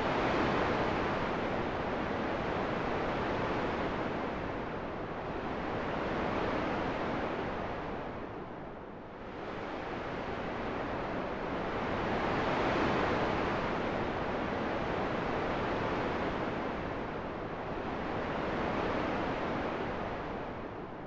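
Wind blowing as an even rushing noise that swells and eases every few seconds, dropping back more deeply twice.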